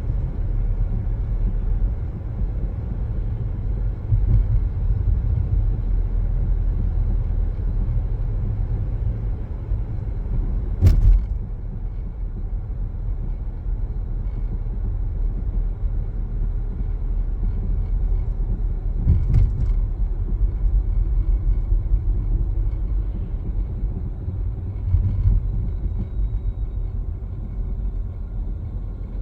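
Car driving along, with the steady low rumble of tyres and engine. There is a sharp thump about eleven seconds in and a lighter one about eight seconds later.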